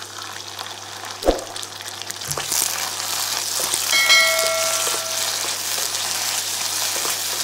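Chopped garlic, ginger, spring onion, chillies and bell pepper sizzling in hot oil in a wok, the sizzle getting much louder about two and a half seconds in as chili paste is stirred in with a wooden spatula. A single knock about a second in, and a short bell-like notification chime about four seconds in.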